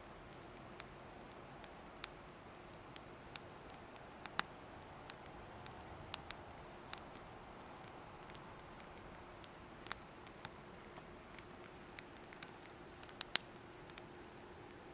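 Wood fire crackling: irregular sharp pops and snaps, a few of them loud, over a faint steady hiss.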